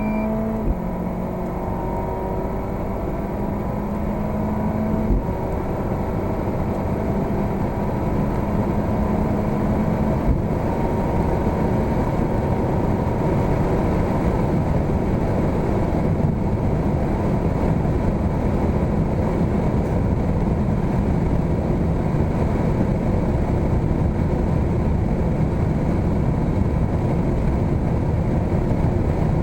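Volvo S60 Polestar's 2.0-litre four-cylinder engine under full-throttle acceleration, its note stepping at a few gear changes in the first ten seconds. After that a growing rush of wind and road noise covers the engine as speed climbs.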